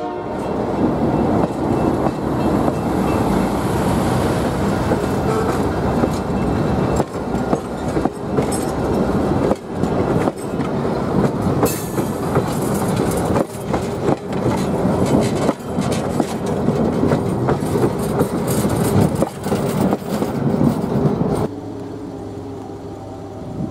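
Excursion train hauled by FPA diesel locomotives rolling past, its wheels clattering irregularly over the rail joints over a heavy rumble. About 21 seconds in the sound drops off abruptly to a quieter, steady hum.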